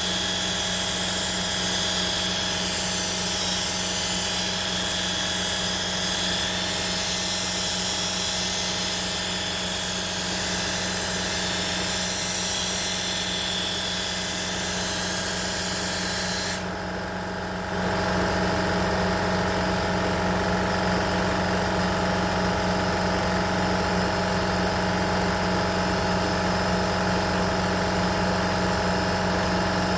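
A motor running steadily with a fixed hum. About 17 s in, the sound changes: the high hiss drops away and the low hum grows a little louder.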